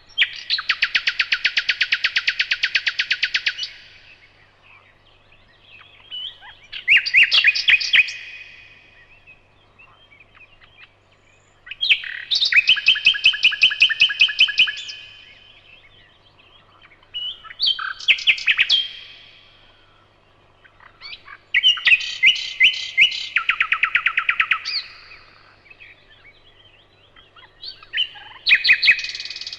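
A songbird singing repeated phrases of rapid trilled notes. Each phrase lasts one to four seconds, often stepping in pitch partway through, with pauses of a few seconds between phrases.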